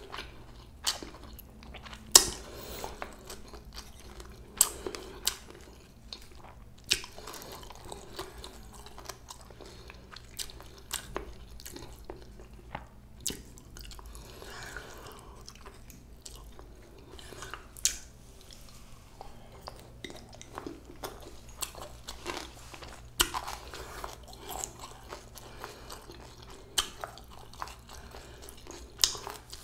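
A person chewing and biting mouthfuls of bossam, boiled pork wraps, close to the microphone, with frequent sharp crunches every second or so; the loudest crunch comes about two seconds in.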